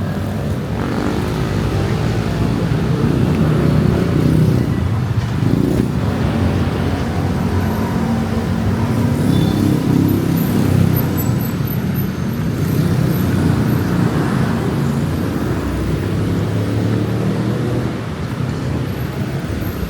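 Busy road traffic: cars passing in a continuous rumble that swells and eases as vehicles go by.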